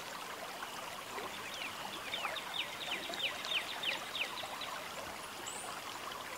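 Outdoor ambience with a steady hiss. About one and a half seconds in, a bird gives a rapid run of about a dozen high, falling notes, lasting some two and a half seconds.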